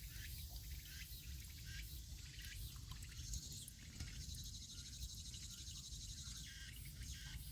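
Woodland ambience: scattered short bird chirps, and a fast, high insect trill in the middle, over a steady low rumble.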